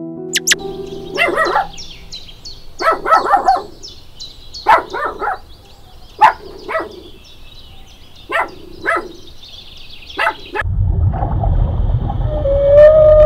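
Puppies yipping and barking in about eight short clusters over a fast, high chirping. About ten and a half seconds in, this gives way to a deep underwater rumble, and a humpback whale's long call begins near the end.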